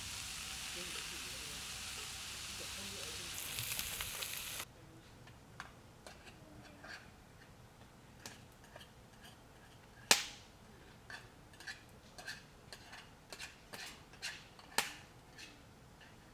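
Food sizzling and frying in a pan with a steady hiss that swells briefly, then stops abruptly. It gives way to scattered light clicks and taps, with two sharp, loud clicks.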